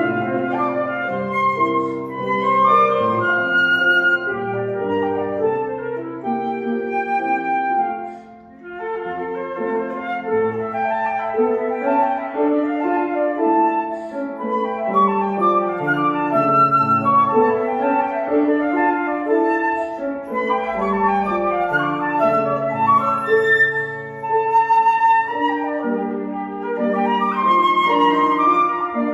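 Flute and grand piano playing classical music together: a flute melody over piano accompaniment, with a brief break in the phrase about eight seconds in.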